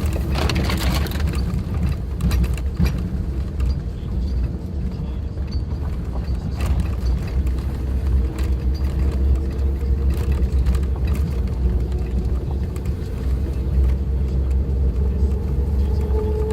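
Suzuki Jimny driving on a forest road: a steady low engine and road rumble, its engine note wavering and rising near the end, with scattered knocks and rattles from the rough surface and the body.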